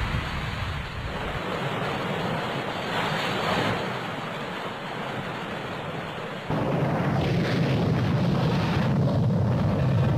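Wind buffeting the microphone over sea and surf noise. About six and a half seconds in it cuts abruptly to a louder, denser rush of noise.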